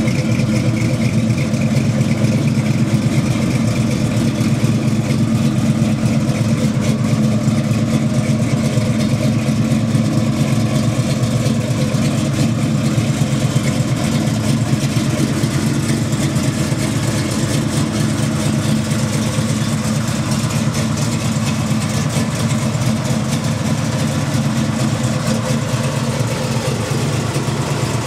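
A 468 cubic-inch Chevrolet big-block V8 in a 1970 Chevelle idling steadily.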